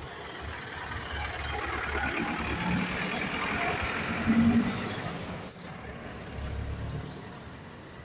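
A bus driving past, its engine and tyre noise swelling to a peak about four seconds in and then fading away, with a short sharp click about a second after the peak.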